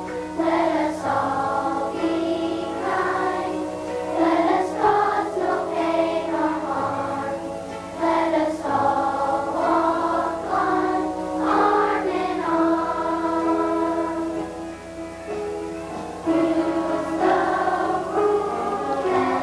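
Elementary school children's choir singing a song, many young voices together.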